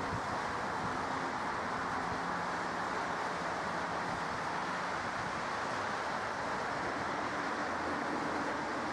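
Steady jet engine noise from an airliner at the airport: an even roar with a faint low hum, holding constant throughout.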